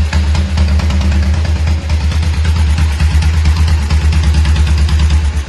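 1951 Horex Regina motorcycle's single-cylinder four-stroke engine running steadily with a rapid, even beat.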